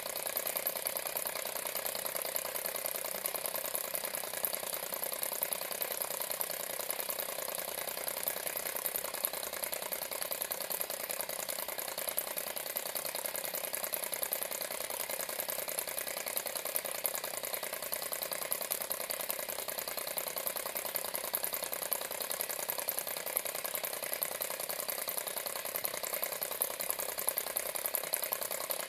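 Model Stirling engine running steadily, its moving parts making a rapid, even mechanical ticking clatter.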